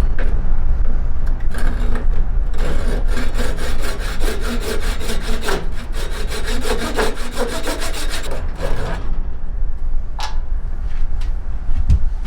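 A hand tool worked in quick, even back-and-forth strokes on a yew bow stave, about six strokes a second for several seconds, then stopping, with a few single scrapes before and after. A steady low rumble runs underneath.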